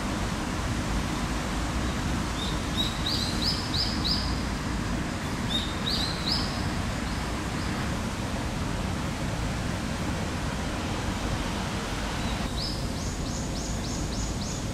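A small bird chirping in three short runs of quick, high, rising notes, over a steady low outdoor background noise.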